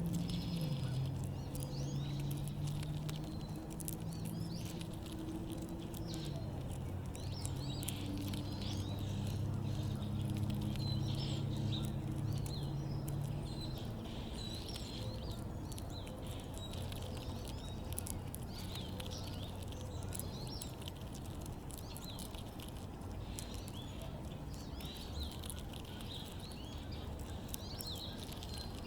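Backyard birds chirping with many short, high calls throughout. A low steady hum runs under them for the first half and fades out about halfway through.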